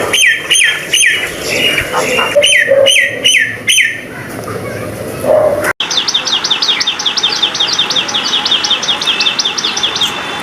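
Birds calling. A common myna gives a repeated falling call in the first few seconds. After an abrupt cut about halfway through, a different bird gives a fast run of short, high chirps, several a second.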